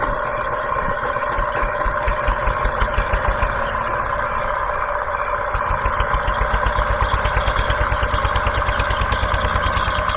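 Tractor engine idling with a steady chugging pulse of about seven beats a second, with a steady whine over it. The chugging grows louder and more even about six seconds in.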